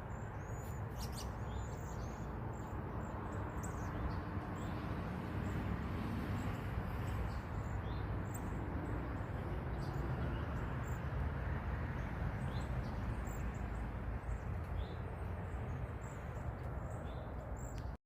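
Small birds chirping in short, scattered calls over a steady low background rush. The sound cuts off suddenly at the end.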